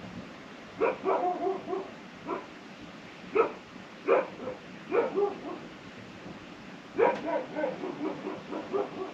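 A dog whimpering and yipping in short, high, pitched calls, in three groups: about a second in, again from about three to five seconds, and a longer run from about seven seconds to near the end.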